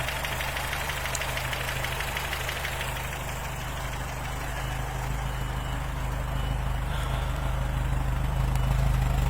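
A car engine idling steadily, its sound growing gradually louder toward the end.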